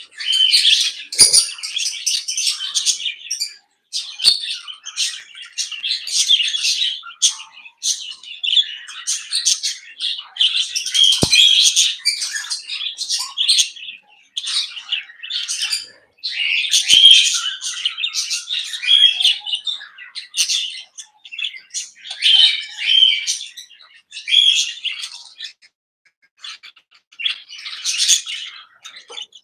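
A mixed flock of small aviary parrots chirping and chattering, many high chirps overlapping in busy clusters with short lulls between.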